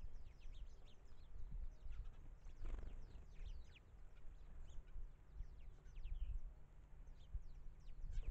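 Small birds chirping around a bird table, many short, high calls in quick succession, over a low rumble of wind on the microphone; a brief louder call about three seconds in.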